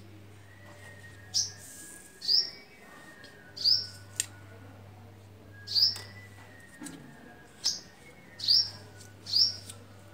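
A small bird chirping: short, high chirps repeated every second or so, about seven in all, over a faint low hum.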